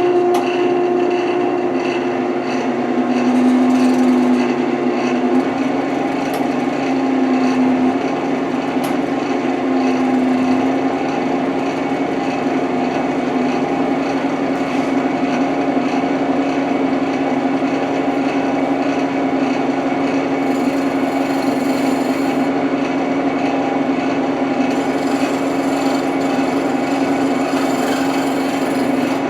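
Wood lathe running steadily while a turning tool cuts into the spinning wood, a continuous motor hum under an even scraping of the tool on the wood.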